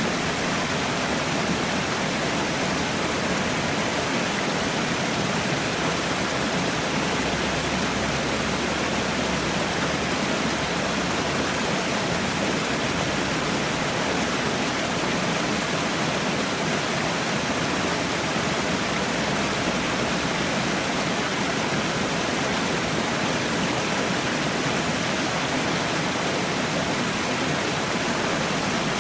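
Falling water, a steady rushing hiss that stays unchanged throughout.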